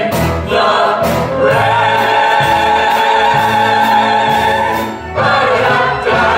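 Music with a choir of voices singing over accompaniment, holding long sustained notes, with a brief break about five seconds in.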